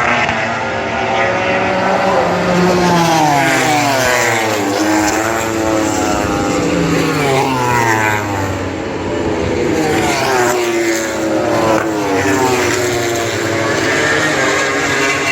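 MotoGP racing motorcycles passing one after another at top speed, around 320–330 km/h, their high-revving engines dropping in pitch as each goes by.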